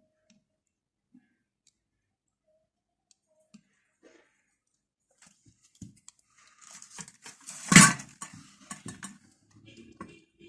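Small clicks and light knocks of hand tools being handled on a workbench, mostly quiet at first, then a busy spell of clicking more than halfway in with one sharp clack, the loudest sound, a little before the eight-second mark.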